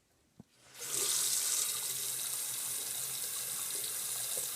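A bathroom sink faucet is turned on about a second in, and water runs steadily into the basin. It is the sink that has just been unclogged, draining freely.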